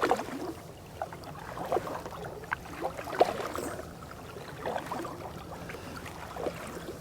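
Water noise from a canoe's over-the-side depth-finder transducer as the canoe moves: small irregular splashes, gurgles and light knocks over a faint low hum. It is the noise that keeps the canoe from gliding almost silently.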